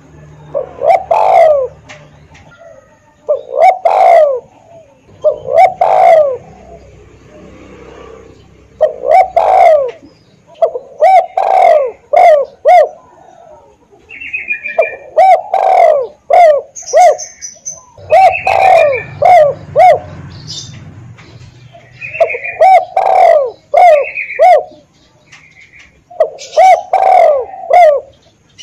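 Spotted dove cooing in repeated phrases of several quick notes, a phrase every two to three seconds. A few high chirps from a small bird come between the phrases.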